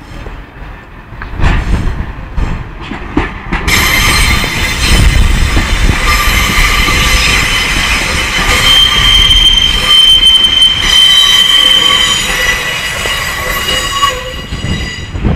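Train wheels squealing on curved track: after a few knocks over rail joints, several high steady squeal tones set in about four seconds in and hold for some ten seconds over the rumble of the train, then die away.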